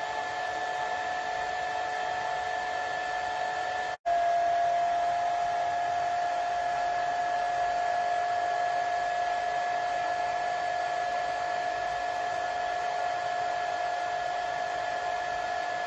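Hair dryer running steadily: a rushing hiss with a steady whine. About four seconds in it cuts out for an instant, then comes back slightly louder and a little lower in pitch.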